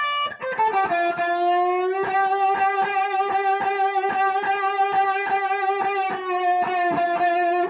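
Electric guitar playing a blues lick: a string bent up in pitch about a second in, then the bent note held and picked repeatedly, about three to four times a second.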